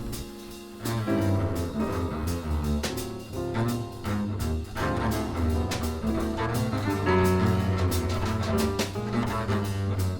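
Jazz piano trio playing, with the plucked upright double bass the most prominent instrument and drum-kit cymbals keeping time above it. The music drops back briefly in the first second, then carries on.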